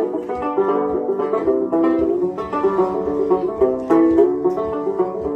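Gourd banjo playing an instrumental break: a quick, steady run of plucked notes with no singing.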